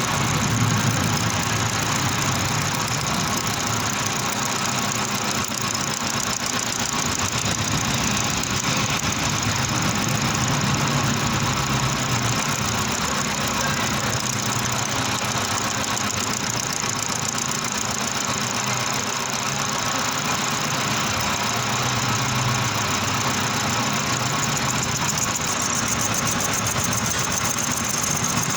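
Manual metal lathe running steadily, its motor and drive making a continuous mechanical hum with a bright hiss.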